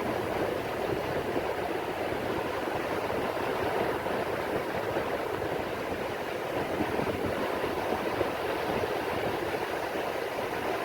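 Steady rain falling on the sea: a dense, even hiss of water, with no single splashes or wave breaks standing out.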